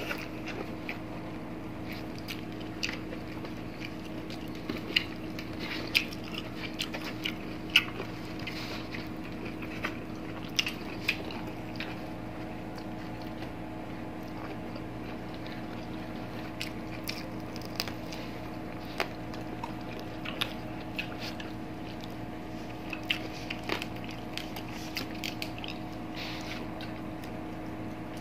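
Close-up eating sounds of two people chewing fried fish eaten by hand, with scattered sharp mouth clicks, over a steady low hum.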